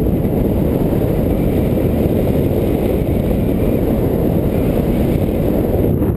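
Strong wind buffeting the microphone of a camera carried on a paragliding flight: a loud, steady, low rumbling rush.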